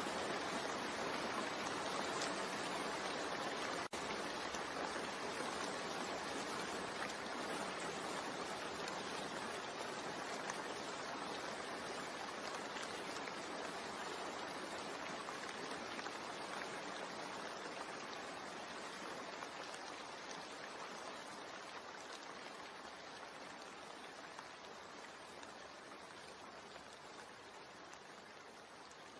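Steady rain, an even hiss of falling water with a brief dropout about four seconds in, slowly getting quieter throughout.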